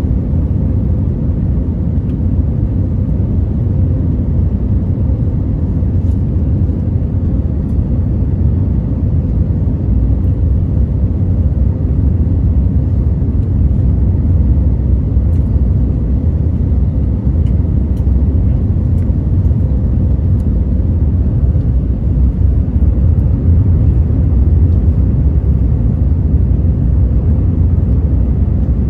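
Steady low rumble of cabin noise inside an Airbus A321 in flight: engine and airflow noise, rising slightly in loudness partway through.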